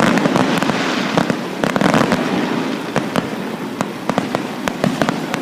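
Fireworks finale: a dense, rapid string of bangs and crackles from many shells going off close together, a little less dense toward the end.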